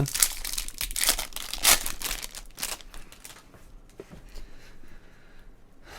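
Trading-card pack wrappers crinkling and tearing as packs are opened and cards handled. The sounds come thick for about three seconds, then thin out to a few faint rustles.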